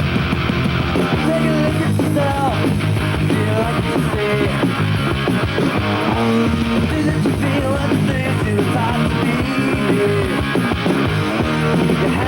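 Punk-style rock music with guitars, playing at a steady, loud level.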